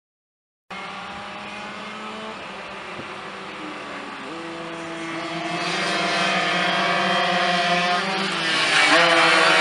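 Racing go-kart engine running, starting abruptly just under a second in, growing steadily louder, with its pitch rising at about four seconds and again near nine seconds as it revs up.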